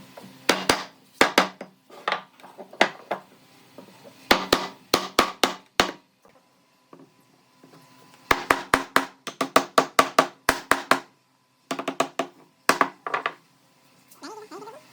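Hammer blows on wood, in bursts of several quick strikes with short pauses between. Each strike rings briefly.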